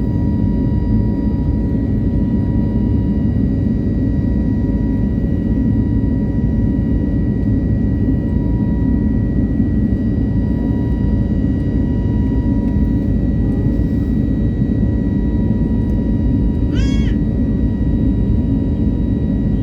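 Jet airliner's engines during takeoff: a steady, loud low rumble with a steady high whine on top, holding level throughout. About three-quarters of the way through, a short high-pitched rising cry sounds once over the engine noise.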